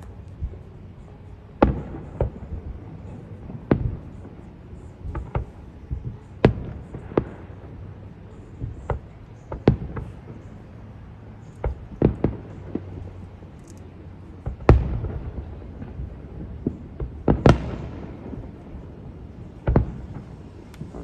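Fireworks display: aerial shells bursting with irregular sharp booms, about one to three a second, some echoing, over a steady low rumble.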